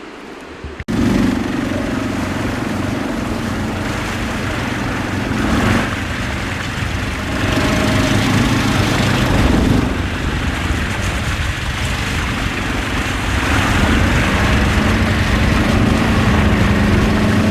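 Steady vehicle engine noise that cuts in abruptly about a second in and then holds.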